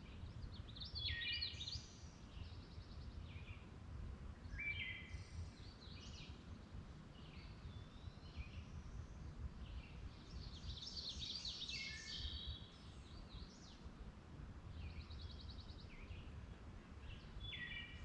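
Wild birds singing outdoors, with a run of varied chirps and warbled phrases through the whole stretch, busiest around the middle. A low, steady rumble runs underneath.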